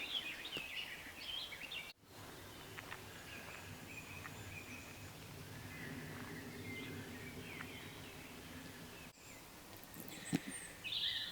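Faint woodland birdsong over background outdoor noise, with a short burst of chirping at the start and scattered quiet calls after. The sound drops out briefly twice, and there is a single click near the end.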